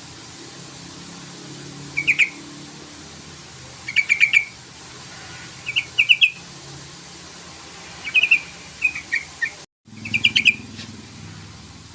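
Yellow-vented bulbul (trucukan) calling: short bursts of quick bubbling notes, repeated about every two seconds. A steady low hum sits underneath, and the sound cuts out for a split second just before the last burst.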